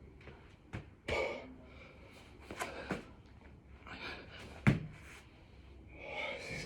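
Hard breathing with thuds and knocks of hands and feet landing on the floor during six-count burpees. The loudest is a single sharp knock about two-thirds of the way through.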